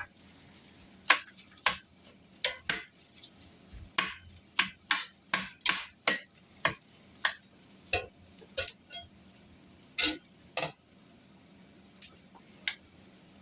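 A cooking utensil knocking and scraping against a pan while fried rice with egg is stirred and tossed: irregular clicks, one or two a second, with the loudest pair about ten seconds in, over a faint steady high hiss that fades near the end.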